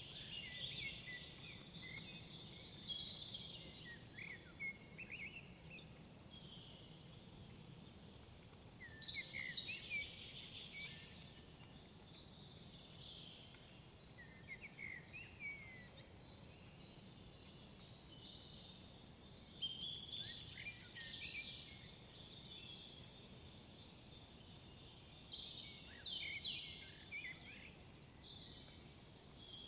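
Woodland songbirds singing: phrases of quick chirped and whistled notes come every five or six seconds, several ending in a very high, rapid trill. Under them is a faint steady low rumble.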